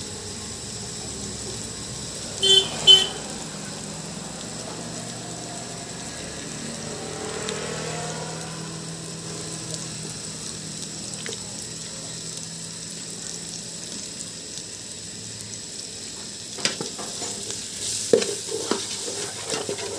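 Chicken masala with tomato paste sizzling in a pan, stirred and scraped with a spoon, the knocks of the spoon getting busier near the end. Two short loud horn honks sound about two and a half seconds in.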